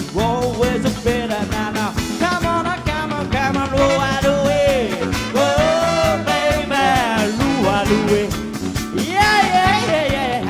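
Live band playing an upbeat song with a steady beat, a lead melody sung in long wavering notes over it.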